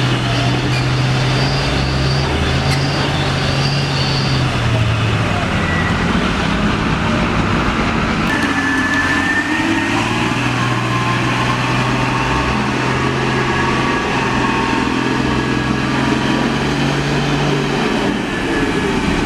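Truck engine running with a steady low drone over a broad rumble of noise. The drone fades about five seconds in and comes back strongly about ten seconds in.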